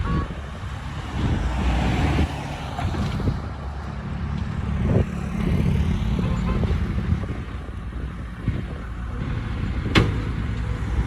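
Diesel engine of a heavy earthmoving machine running and rising and falling under load, with a knock about five seconds in and a sharp metallic clank about ten seconds in.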